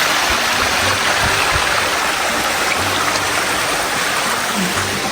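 Steady rush of rain-swollen creek water tumbling over rocks at the waterfall, with a few low bumps in the first second and a half.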